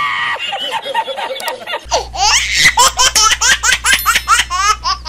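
Laughter: a high-pitched laugh repeated in rapid short bursts, several a second, through the whole stretch.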